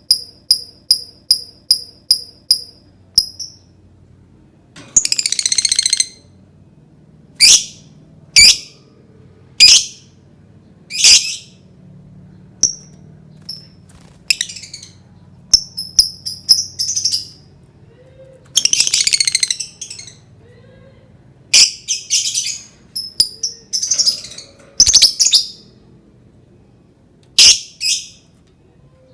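Lovebird calling: a quick run of evenly spaced high ticks for the first three seconds, then short shrill squawks and long buzzy chattering trills, the longest about five and nineteen seconds in, with pauses between.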